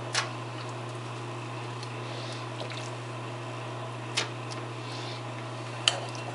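An oven switched on for broiling: a steady electrical hum sets in, with a few light clicks and knocks over it.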